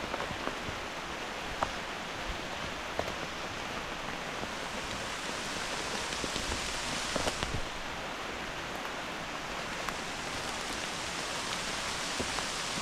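Hard, steady rain falling, with occasional sharp ticks scattered through it.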